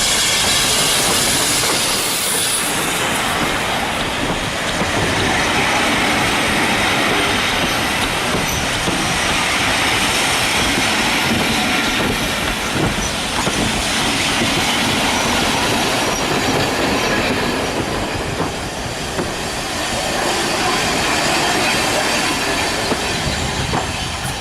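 Railway carriage running along the track, the wheels on the rails making a steady loud rumble and rattle.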